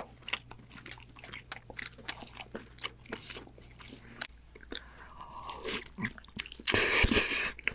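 Close-miked chewing of crispy fried food: a steady run of sharp crackles, then a loud crunch of a big bite near the end.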